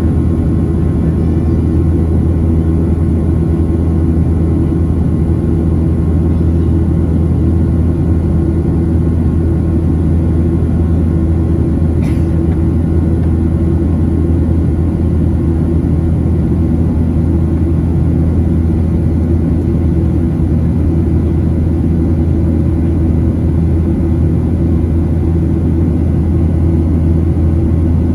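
Loud, steady cabin drone of a Boeing 737-700's CFM56-7B turbofan engines running at constant thrust, with a deep hum under it. A faint short click comes about twelve seconds in.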